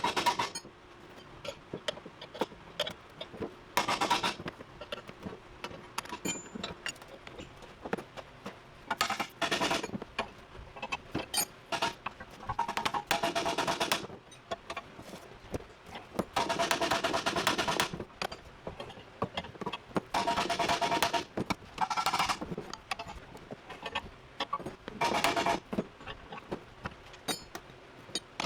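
Workshop sounds: a power tool running in short bursts of one to two seconds, several times, between sharp clinks and knocks of tools and metal parts.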